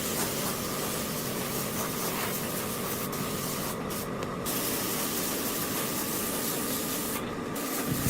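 Steady hissing noise with a faint steady tone. The highest part of the hiss drops out briefly a few times.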